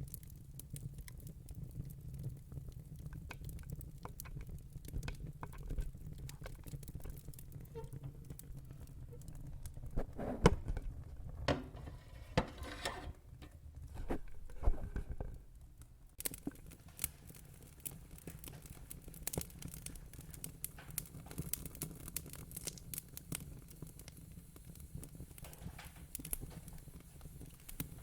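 Wood fire in a fire pit crackling, with scattered small clicks and a run of louder pops about ten to fifteen seconds in, over a low steady rumble.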